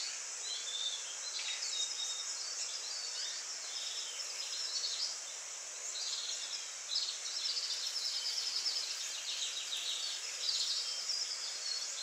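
Birds chirping and twittering, many short calls throughout, over a steady high-pitched hiss of outdoor background noise.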